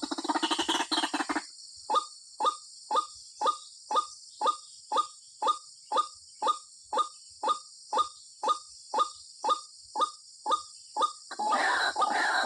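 White-breasted waterhen (ruak-ruak) calling. A fast croaking chatter breaks off about a second and a half in, then gives way to a steady run of single short calls, about two a second. A loud harsh chattering starts again near the end, over a steady high hiss.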